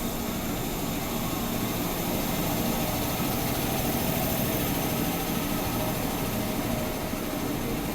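JR East 205 series electric commuter train running with a steady mechanical hum and rush of noise.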